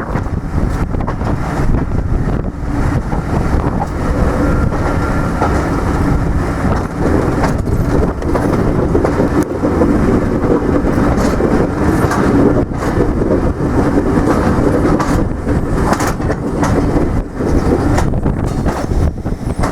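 A train running past on the line, a steady rumble with irregular clicks of wheels over rail joints.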